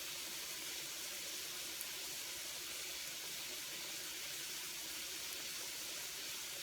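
Jamaican fried dumplings frying in a pan of hot oil, a steady sizzle.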